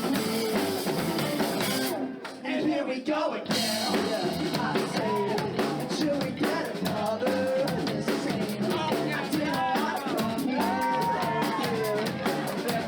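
Live rock band playing a song, with a drum kit and a singing voice. The music thins out briefly about two seconds in, then the drums and vocal come back.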